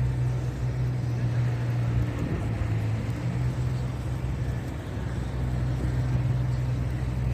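Steady low hum of motor traffic on a city street, with a constant background hiss.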